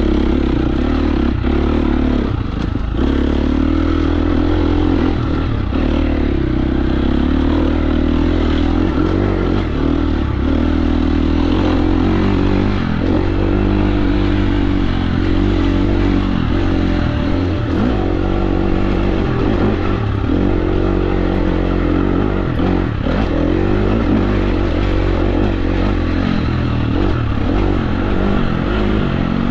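KTM 350 SX-F four-stroke single-cylinder dirt bike engine being ridden off-road, the revs rising and falling continuously with the throttle. Scattered knocks and clatter from the bike come through over the engine.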